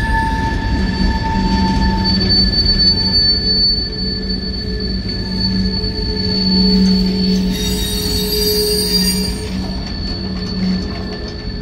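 Freight cars rolling past on steel wheels, squealing in several steady high tones over the low rumble of the wheels on the rails. A brief high hiss comes about eight seconds in.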